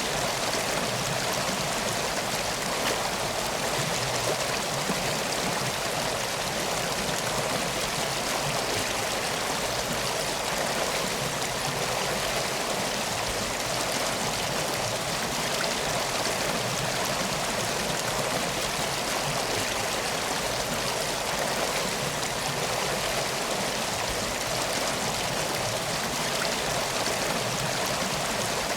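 Steady rushing of flowing water, an even, unchanging wash of sound like a stream.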